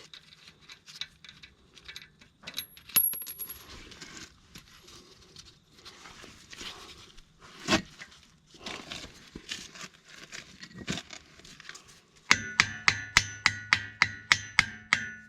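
Scattered light metallic clicks and knocks, then about twelve seconds in a quick run of about a dozen hammer blows on steel, roughly four a second, each one ringing.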